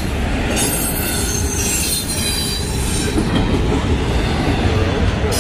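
Double-stack container well cars of a freight train rolling past at close range: a steady, loud rumble of steel wheels on rail, with a thin, high-pitched wheel squeal in the first second or so.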